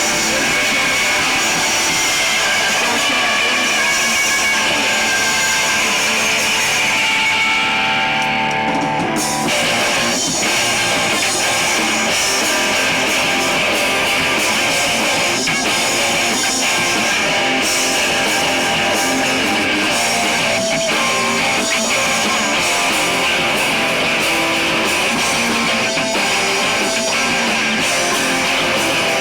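Rock band playing live: electric guitars and drums, loud and steady throughout.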